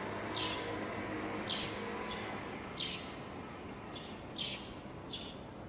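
Bird calls at a drinking bowl: short, high chirps, each dropping in pitch, repeated about once a second and sometimes in quick pairs, over a steady background hiss.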